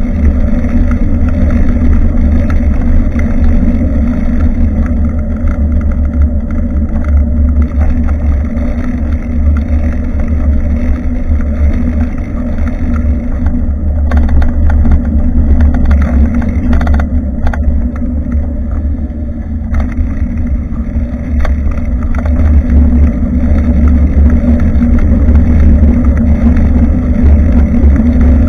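Wind rumbling on the microphone of a bicycle-mounted action camera while riding, a steady low rumble with road and tyre noise in it.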